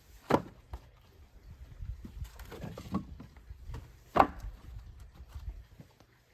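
Split walnut firewood being stacked: two sharp wooden clunks, one just after the start and one about four seconds in, with softer knocks and shuffling in between.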